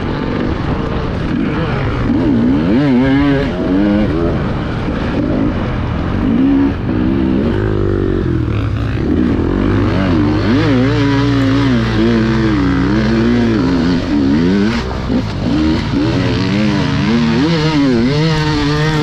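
Enduro dirt bike engine being ridden hard, the revs rising and falling again and again as the throttle is worked.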